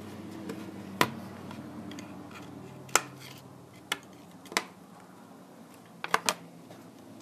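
Sharp clicks and taps of small tools and plastic parts during tablet disassembly, about six in all, with two close together near the end, over a steady low hum.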